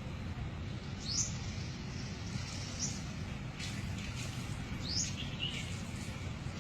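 Short, high chirps rising in pitch, one every second or two, over a steady low rumble.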